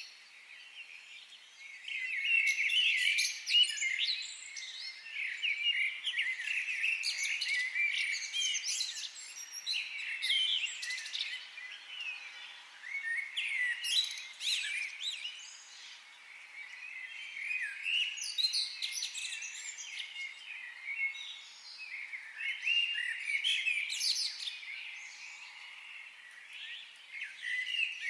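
Several wild birds chirping and singing in a forest, their calls overlapping in busy bursts with short lulls between them, quieter for about the first two seconds.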